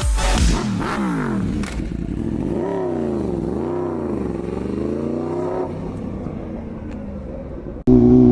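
A vehicle engine revving, its pitch swinging up and down several times before fading away. Near the end it cuts suddenly to a louder, steady engine hum.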